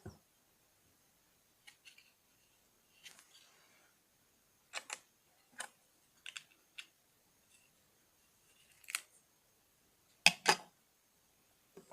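LEGO bricks being handled and pressed together: a scattering of sharp plastic clicks, with a louder double click near the end.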